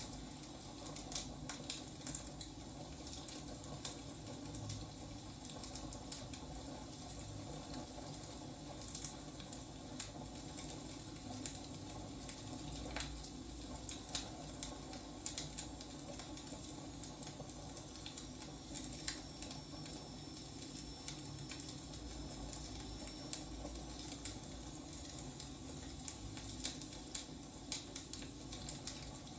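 Wood fire burning, with irregular crackles and pops over a steady low rumble. A faint thin high whistle sounds for a few seconds past the middle.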